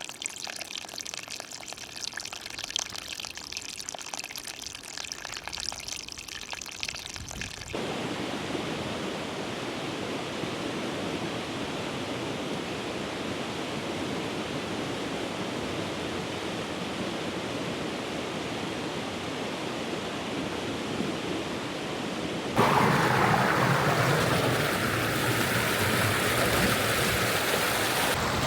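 Running water of a forest stream, a steady rushing that changes suddenly about eight seconds in and again near the end, where it gets louder.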